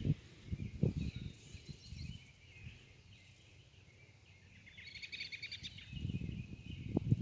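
Songbirds singing, with a quick trill of rapidly repeated notes about five seconds in. Beneath them are irregular low thuds and rumble, heaviest near the start and the end.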